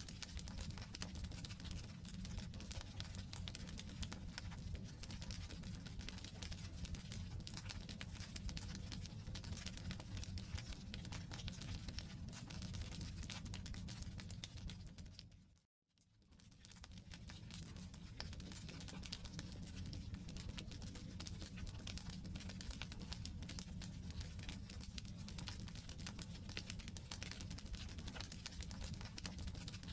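Wood campfire burning, with dense fine crackling and popping over a low, steady rumble. About halfway through, the sound dips to silence for a moment, then returns.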